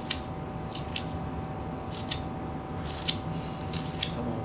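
Knife whittling strokes on wood: five short shaving cuts about once a second, each a brief high scrape ending in a sharp click.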